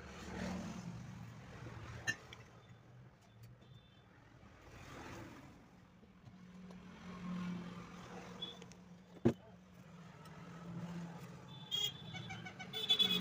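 Quiet handling sounds while a table fan motor's rear bush bearing and end cover are being fitted: a few sharp clicks, the loudest about nine seconds in, and small metallic clinks near the end. Underneath is a low steady hum and slow swells of faint rumbling noise.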